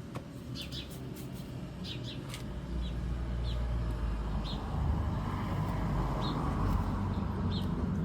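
Birds chirping, short high calls every second or so, over a low rumble that grows louder about halfway through.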